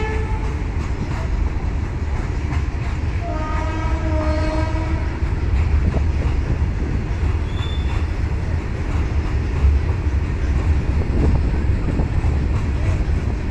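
Freight train of open steel wagons rolling past close by: a steady rumble of wheels on rail with clickety-clack of the wheel sets over the rail joints. A brief pitched tone sounds about three to five seconds in.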